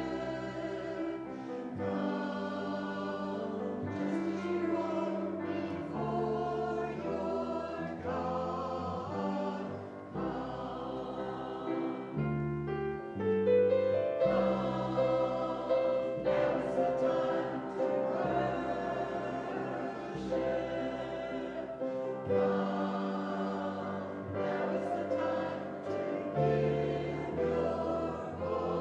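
A choir singing with instrumental accompaniment: a hymn, held notes moving from chord to chord every second or so over a steady bass.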